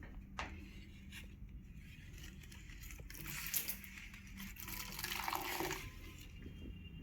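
Water pouring for about three seconds, starting a few seconds in, with a few clicks and a faint steady hum underneath.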